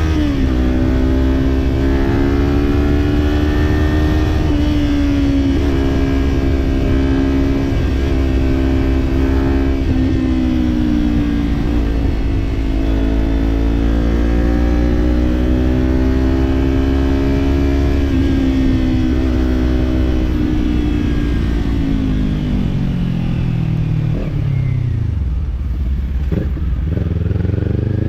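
Kawasaki parallel-twin motorcycle engine cruising at a steady throttle, its note rising and falling gently. About two-thirds of the way through, the bike slows and the engine note drops steadily to near idle, then picks up again near the end.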